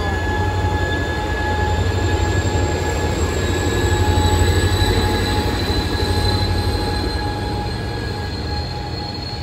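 Amtrak Pacific Surfliner train with a Siemens Charger diesel-electric locomotive going past and pulling away. A deep engine drone swells to its loudest about halfway through as the locomotive passes, then eases off. Steady high-pitched whines ride over it, the highest one rising slightly in pitch.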